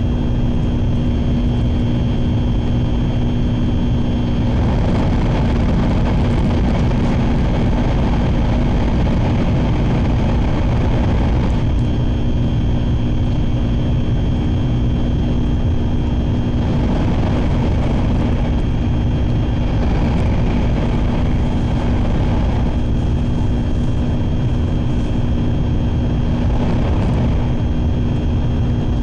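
Sanyo Shinkansen train running at speed, heard from inside the passenger cabin: a steady low rumble and hum from the running gear. A broader rushing noise swells and fades several times.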